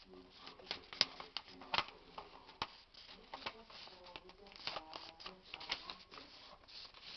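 Sheet of paper being folded and creased by hand: an irregular run of crinkles and sharp crackles, the loudest about a second in and again near two seconds.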